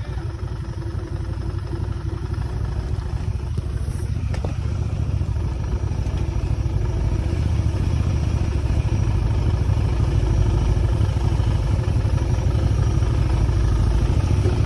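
Motorcycle running while being ridden, a steady low rumble that grows gradually louder through the stretch.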